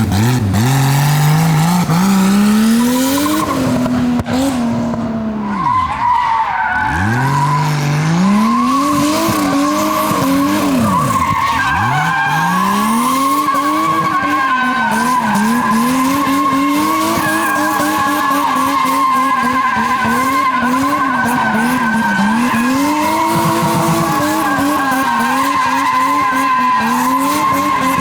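Nissan R32 Skyline's RB20E straight-six, fitted with a homemade turbo kit, driven on track while drifting. The engine note climbs, drops briefly a few seconds in, then rises and falls again and again over a steady squeal of the rear tyres.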